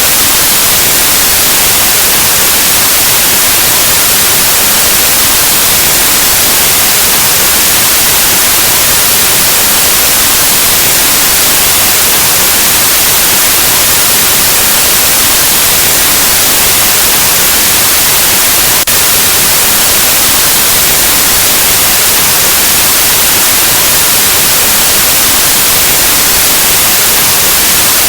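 Loud, steady white noise: an even static hiss across the whole range, like an untuned analog TV or radio.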